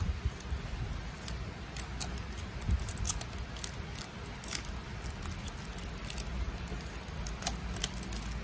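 Scattered small clicks and crinkles of toy packaging being handled, over the steady background noise of heavy rain.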